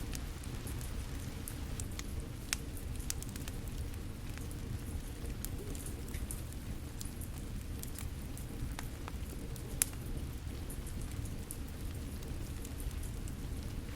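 Steady rain with a wood fire crackling over it: a continuous low hiss of rain and irregular sharp pops and snaps from the fire, one louder pop about two-thirds of the way through.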